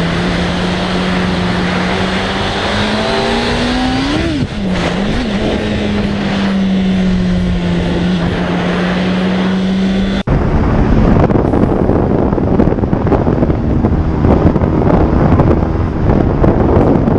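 A motorcycle engine running at a steady note, rising briefly and dipping about four seconds in before settling back. Near the ten-second mark an abrupt cut brings louder, gusty wind noise buffeting the microphone over a running engine.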